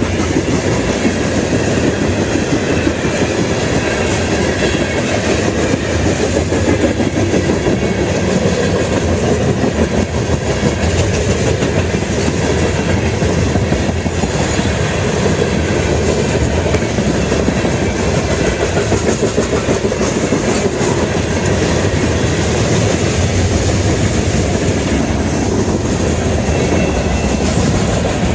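Freight cars of a Canadian Pacific freight train rolling past, the wheels on the rails making a steady, dense run of clicks.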